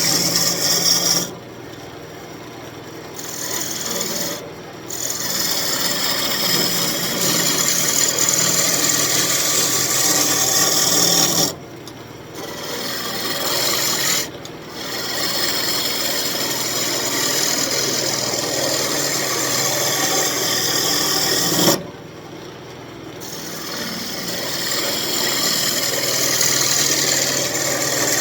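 Lathe tool cutting into a spinning elm spoon blank, a steady scraping hiss of wood being shaved. It breaks off briefly five times as the tool leaves the wood, dropping to a quieter background.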